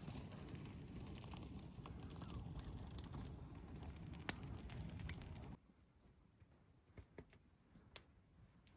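Faint background hiss with a few soft clicks. It drops away about five and a half seconds in, leaving near silence broken by three or four isolated clicks.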